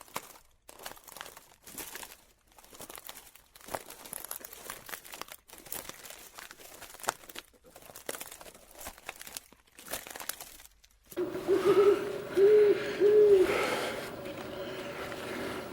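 Faint scattered rustling and crinkling clicks, then about eleven seconds in an animal gives short hooting calls, three arched notes close together.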